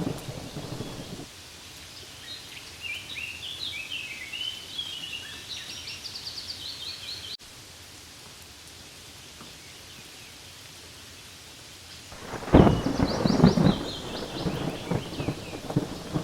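Steady rain with thunder: a rumble dies away in the first second, and a louder roll of thunder starts about twelve seconds in and lasts about three seconds. Small birds chirp over the rain in the middle stretch and again during the later thunder.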